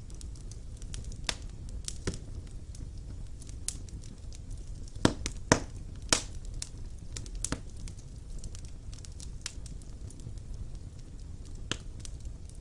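Fire burning in a fireplace: irregular sharp crackles and pops over a steady low rumble, with a few louder pops around the middle.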